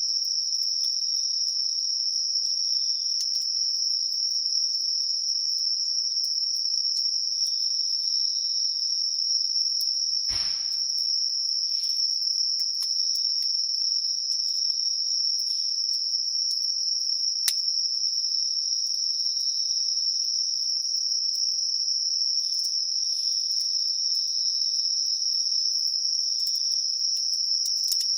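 Crickets singing in a steady, unbroken high trill, with a few faint clicks.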